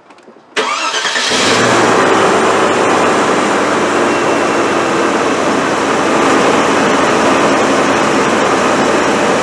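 Land Rover Discovery 2 petrol V8 starting: a short crank from about half a second in, then it catches and runs steadily. The number 2 cylinder misfire, traced to an intermittently firing spark plug, has been cured.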